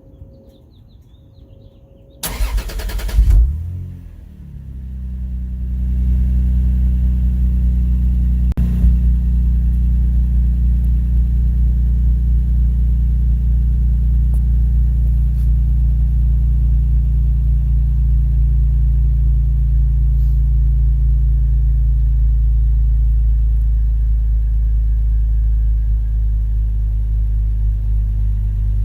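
Toyota Supra's 2JZ-GE naturally aspirated straight-six, with its factory exhaust and muffler, is started: a short burst of starter cranking about two seconds in, then the engine catches and builds over a few seconds into a steady, low idle that holds. A single sharp click comes about eight and a half seconds in.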